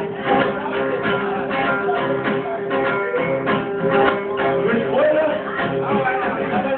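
Live band music led by a strummed acoustic guitar, in an instrumental passage without singing, recorded through a phone's microphone that leaves it dull and without treble.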